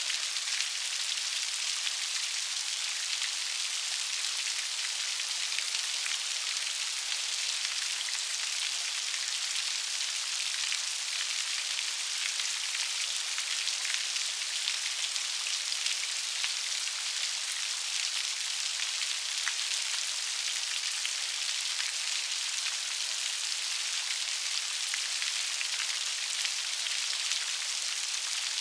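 Steady rain falling, a dense even hiss flecked with fine drop ticks.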